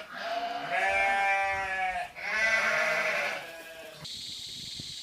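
Sheep bleating: two long calls, one after the other, followed by a steady hiss from about four seconds in.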